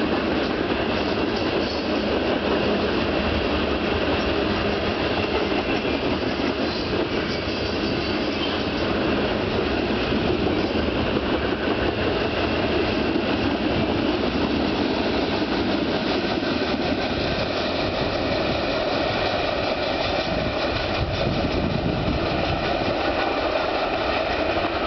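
Freight train of tank cars rolling past close by: a steady rumble and clatter of steel wheels on the rails.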